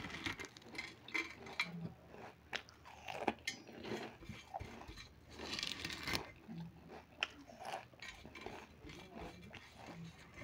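Potato chips being bitten and chewed close up: irregular sharp crunches throughout, with a louder run of crunching a little past halfway.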